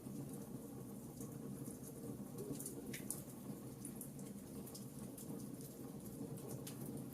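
Wood fire burning in a fireplace: irregular small crackles and pops over a steady low background of the fire.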